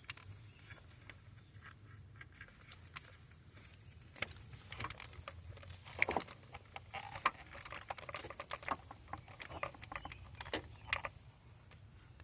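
Irregular light clicks and taps of hand tools and small parts being handled, sparse at first and busiest from about four seconds in until near the end.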